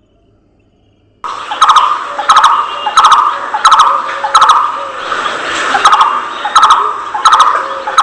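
Budgerigars chirping, a sharp call repeated very regularly about one and a half times a second, starting after about a second of silence.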